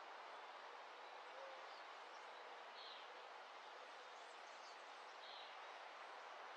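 Faint dawn ambience: a steady low hiss with a few distant bird chirps, two clearer ones about 3 and 5 seconds in.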